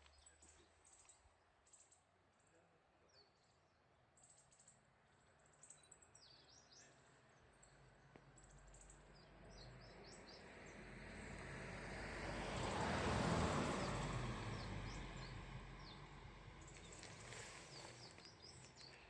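A vehicle passing on the mountain road: its engine and tyre noise swells over several seconds to a peak a little past the middle, then fades. Small birds chirp with short, high calls throughout.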